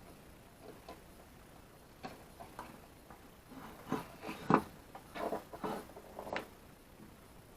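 Irregular clicks and light knocks of hands and tools working on a halogen floodlight's wiring, busiest in the middle, with one sharper knock about four and a half seconds in.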